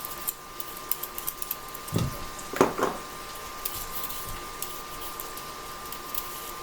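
Beef browning in a pan, crackling faintly, with two soft knocks about two seconds in.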